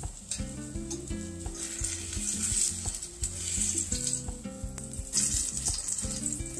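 A banana patty frying in hot oil in a stainless steel sauté pan, sizzling steadily and swelling louder twice, while a metal slotted spatula scrapes and clicks against the pan as it turns and presses the patty.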